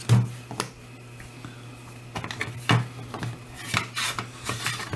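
Precision screwdriver kit being handled and set down on a workbench: a handful of sharp clicks and knocks of small hard parts, spread a second or so apart, over a steady low hum.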